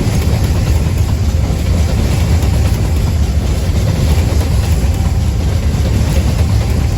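Coal freight train passing, a steady, loud low rumble with no breaks.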